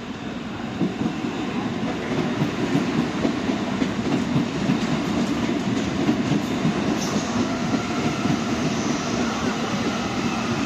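CPTM electric commuter train running past close alongside, its wheels and cars making a dense, uneven rumble on the track that grows louder about a second in as the cars come level.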